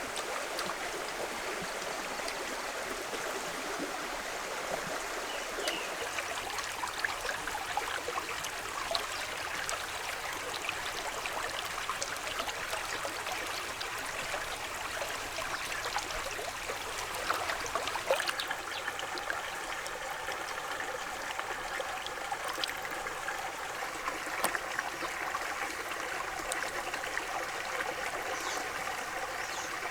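Water flowing and trickling steadily, full of small ticks and splashes. About two-thirds of the way through, a steady hum of several tones joins it.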